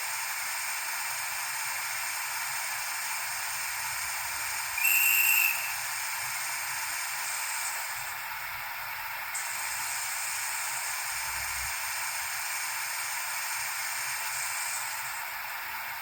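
Steady hiss played through the small speaker of a Minitrix N-scale BR 103.1 model locomotive's sound decoder, with one short, high whistle about five seconds in.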